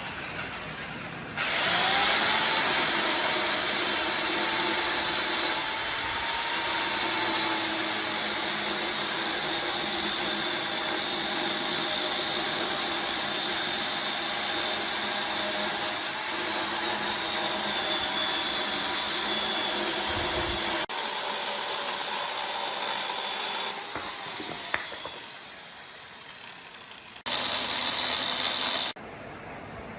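Hand-held electric power tool spinning up with a rising whine, running steadily at speed, then winding down with a falling pitch. A short, loud burst of noise follows near the end.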